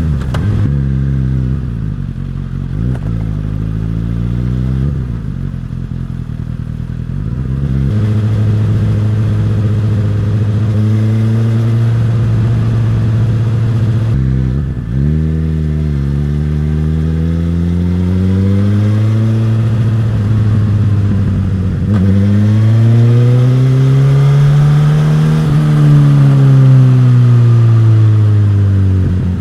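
Suzuki GSX-S1000's inline-four engine and exhaust on the move, pulling up through the gears with the pitch climbing and dropping back at each shift. It holds a steady note for a few seconds in the middle, then revs up to a peak before winding down as the bike slows.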